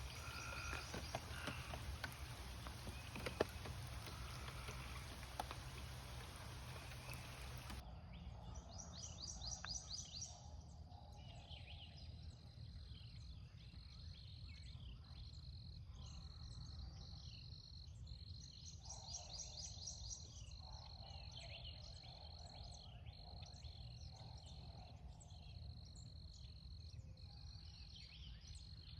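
For about eight seconds, steady rushing noise with a few sharp knocks. It then changes suddenly to a quiet natural outdoor chorus: a steady pulsing high insect trill, with repeated trilled animal calls and short chirps over it.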